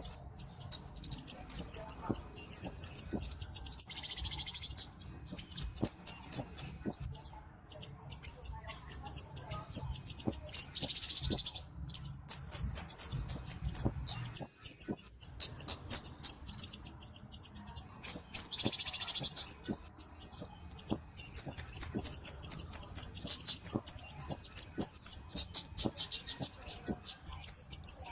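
Cabe-cabean (flowerpecker) song: fast strings of very high, thin ticking chirps in runs of a few seconds, broken by short pauses. The longest run starts about three quarters of the way in.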